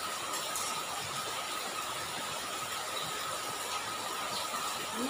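Steady rain falling on a flooded road, a constant hiss of drops, with a thin steady high tone underneath.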